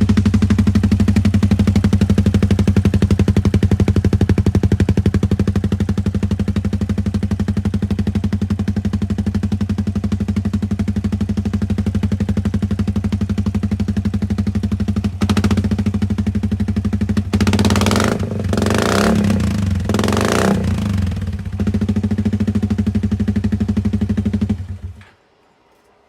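Yamaha Majesty 400 scooter's single-cylinder four-stroke engine idling loudly through a Black Widow aftermarket exhaust, with a few quick throttle blips partway through, then switched off, the sound cutting out shortly before the end.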